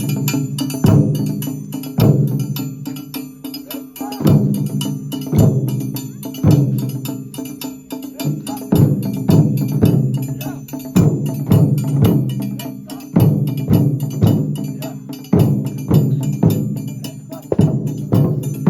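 Japanese taiko ensemble drumming: heavy deep strokes about once a second over a fast, continuous pattern of lighter hits, with a bright, sharp clatter of high strikes on top.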